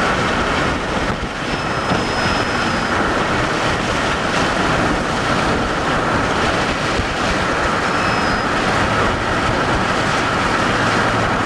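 Steady loud rushing noise of wind and a vehicle, with a steady high hum under it and two short faint high tones, about two seconds and about eight seconds in.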